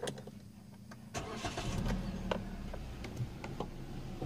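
Kia Picanto's 1248 cc four-cylinder engine being started, heard inside the cabin. About a second in there is a brief crank, then it catches and settles into a steady idle.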